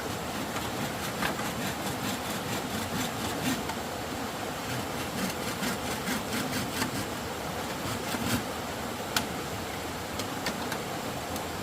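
Quick rasping strokes of a hand tool working bamboo or wood, densest in the middle and thinning out, with one sharper click near the end, over a steady hiss of background noise.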